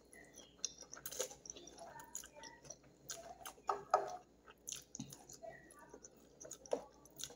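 A person chewing a mouthful of spaghetti eaten by hand, with soft, irregular wet clicks from the mouth and fingers in the food.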